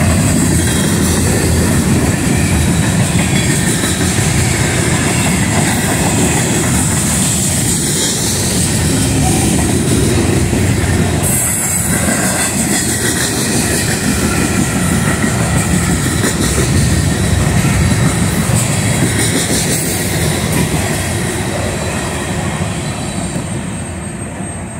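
Covered hopper cars of a freight grain train rolling past close by: a loud, steady rumble of steel wheels on the rails with a high hiss above it. The noise fades over the last few seconds as the tail of the train goes by.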